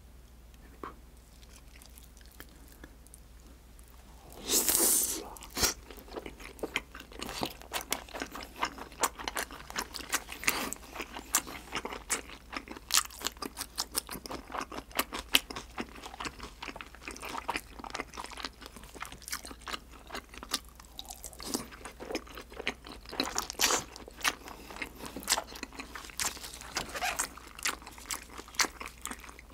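Close-miked chewing of a thick piece of sauce-glazed grilled freshwater eel: a long run of wet mouth clicks and smacks. It is quiet for the first few seconds, with a brief louder rush of noise about five seconds in.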